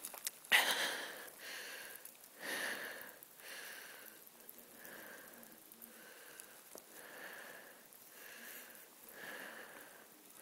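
Short breathy sniffs repeating about once a second, with louder rustling bursts in the first few seconds.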